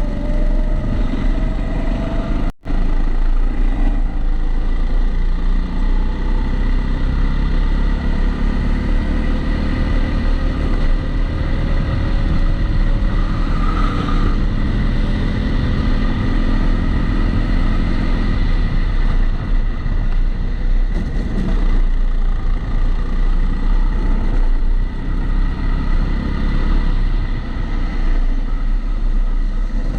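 Kombikart Eco rental kart's engine running at track speed, its pitch slowly rising and falling with throttle through the corners, over a heavy low rumble. The audio is muffled by the GoPro's housing, which also adds a steady high background tone; the sound drops out for an instant about two and a half seconds in.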